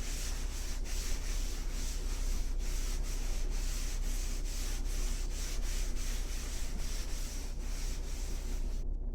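A rag rubbing tung oil into bare wood: a continuous scratchy back-and-forth scrubbing, pausing briefly near the end.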